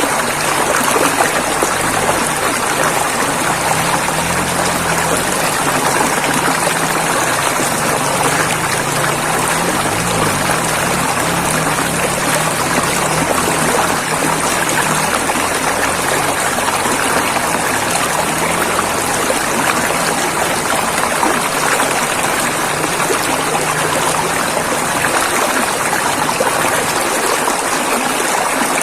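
River water flowing and rushing in a steady, even wash of sound.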